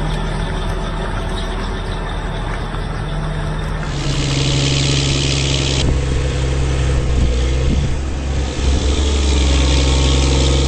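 Challenger MT765D track tractor's six-cylinder turbocharged diesel engine running steadily. The sound changes abruptly about four seconds in, then runs on at a slightly higher level.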